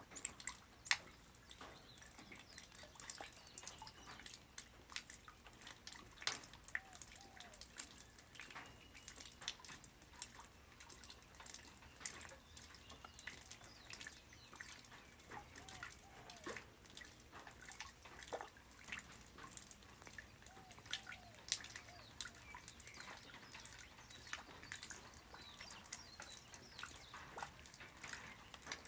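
Light rain falling on the ground: scattered drops hitting at irregular moments, some landing with a small pitched plink.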